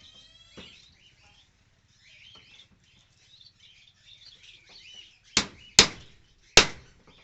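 Bengalese finches chirping in short high tweets, with three loud, sharp knocks near the end.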